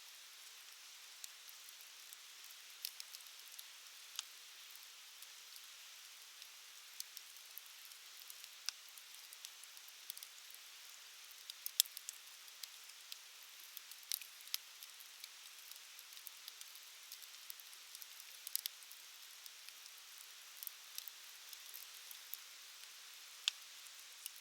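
Campfire crackling: irregular sharp pops and snaps over a soft steady hiss, with one louder pop about twelve seconds in.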